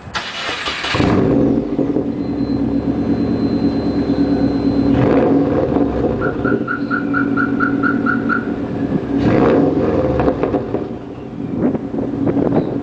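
Subaru WRX turbocharged flat-four engine running through a dual exhaust with downpipe and no resonator, a steady low drone with short surges of noise. A string of about ten quick beeps sounds midway.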